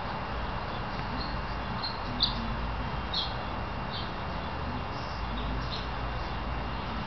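Short, high bird chirps, irregularly spaced, over a steady low hum and hiss.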